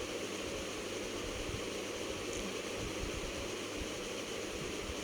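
Steady background hiss with a faint low hum: room tone, with no distinct sound event.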